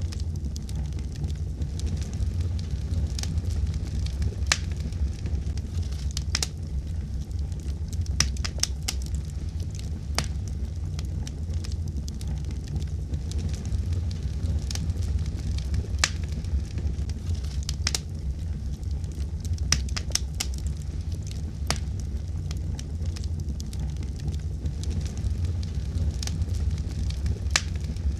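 Wood fire burning in a fireplace: a steady low rumble of flame under frequent sharp, irregular crackles and pops from the burning logs.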